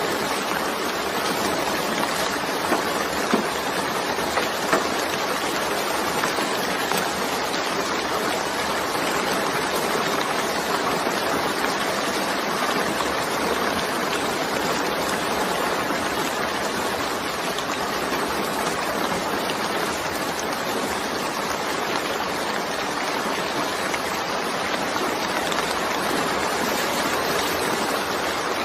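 Steady rain falling in a dense, even hiss, with a few louder drop hits a few seconds in.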